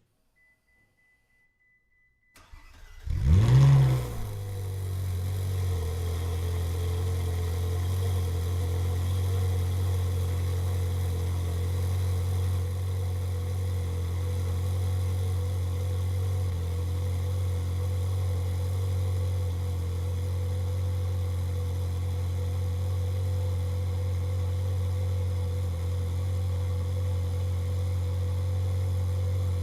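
Ferrari 458 Speciale's naturally aspirated flat-plane V8 cold-starting: after about two seconds of near silence with a faint high tone, the starter cranks briefly, the engine catches with a loud flare of revs, then settles into a steady fast cold idle.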